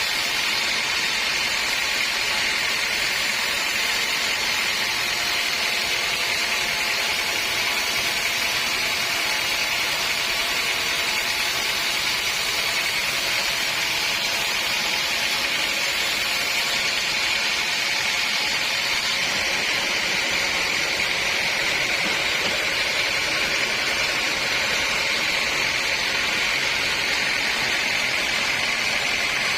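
Sawmill saw running steadily, a loud, even, hissing machine noise with a faint steady hum underneath.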